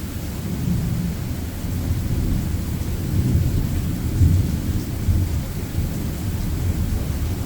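Thunder rumbling low and continuously, swelling and fading, over a steady hiss of rain during a thunderstorm.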